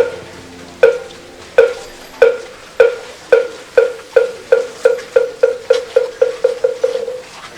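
Moktak (Buddhist wooden fish) struck in a steadily accelerating series: single knocks under a second apart that come faster and faster into a quick roll near the end, the signal for the congregation's three bows to the Buddha.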